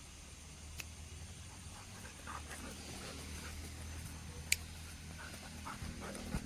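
A dog making a few faint, short sounds over a low steady hum, with a sharp click about four and a half seconds in.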